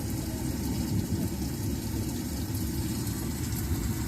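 Rain falling as a steady, faint hiss beneath a louder, continuous low rumble.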